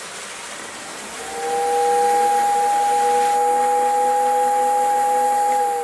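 Marx #2960 Whistling Railroad Station's whistle blowing one long steady chord of several tones, starting about a second in and cutting off at the end, over a steady hiss. The accessory is working again with its shorted wiring repaired.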